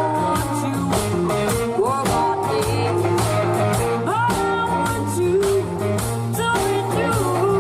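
Live funk-blues band playing with a girl singing: guitar, bass and drums keeping a steady beat under the vocal, with bent sung notes.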